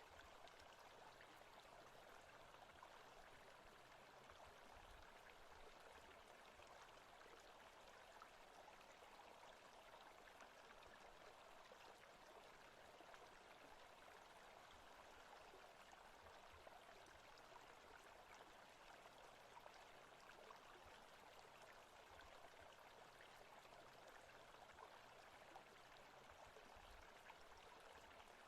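Faint, steady forest ambience of running water.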